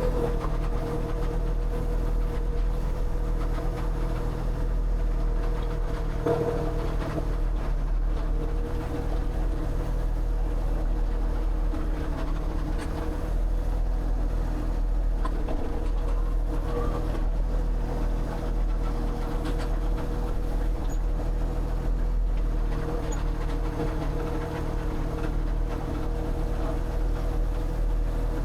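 An engine running steadily at a constant speed with an even, unchanging hum.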